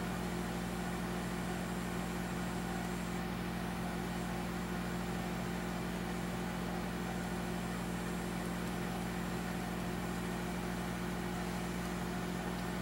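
A steady mechanical hum with a fixed low pitch and faint hiss, unchanging throughout, with no knocks or tool sounds.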